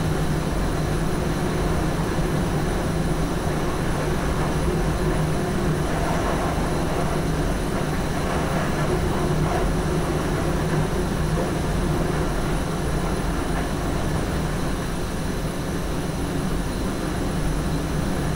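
SGM Sprinter electric multiple unit running along the line, heard from the driver's cab: a steady rumble of wheels on rail with a constant low hum.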